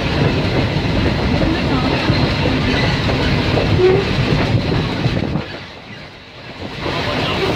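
Moving train heard on board: a steady rumble with wheels clicking over the rail joints. About two-thirds of the way in, the sound drops sharply for a second or so, then comes back.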